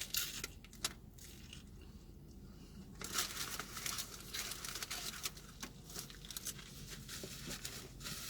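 Crisp crinkling and crackling from eating a Doritos Locos taco: a few light clicks at first, then steady crackling from about three seconds in.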